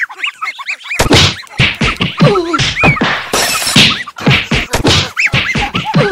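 Slapstick comedy sound effects of a scuffle: a rapid, loud series of whacks and thuds starting about a second in, mixed with short high-pitched rising-and-falling glides.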